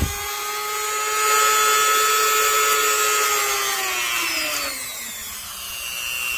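The brushed motor of an EzzDoo electric chainsaw sharpener, with its speed wheel turned up, runs at high speed with a steady whine. About four seconds in it slows, and the whine falls in pitch and settles lower.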